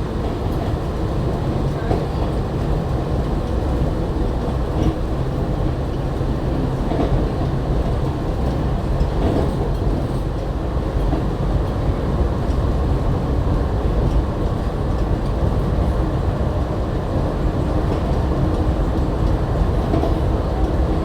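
Inside a Walt Disney World monorail car under way: the running gear gives a steady low rumble with a faint constant hum and occasional light knocks.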